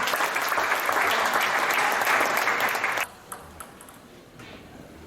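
Audience applauding, stopping abruptly about three seconds in, followed by quieter hall noise with a few faint knocks.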